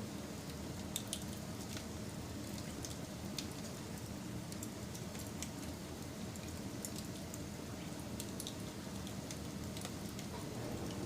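Wood fire burning: a steady low rushing noise with scattered sharp crackles and pops, several a second at times.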